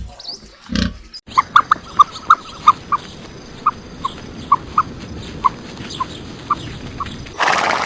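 A dog whimpering in short, high yelps, a dozen or more, irregularly spaced, ending with a brief burst of noise near the end.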